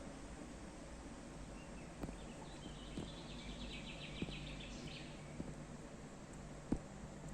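Outdoor ambience: steady background hiss with a bird singing a rapid chattering phrase for about two and a half seconds in the middle. Several short clicks come through, and the sharpest, near the end, is the loudest sound.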